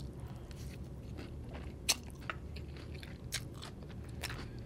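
A person chewing a mouthful of stir-fried egg noodles close to the microphone: scattered small wet mouth clicks, with one sharper click about two seconds in.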